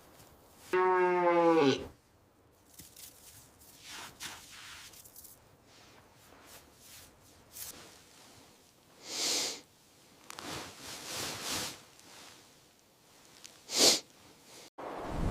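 A reindeer gives one short, low call, about a second long, that drops in pitch at the end. It comes just under a second in. After it there are faint rustles and two short breathy whooshes, one about nine seconds in and one near the end.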